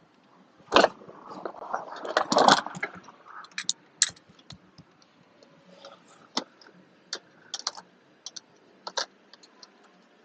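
Irregular small metallic clicks and scrapes of a hand tool being fitted to and worked on a fastener, busiest in the first few seconds, then single clicks every second or so.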